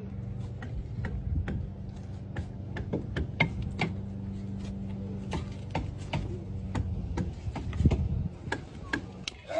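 Irregular sharp knocks, a few a second, of hammer and chisel work on wooden boat timbers. A steady low hum runs underneath and stops about seven seconds in.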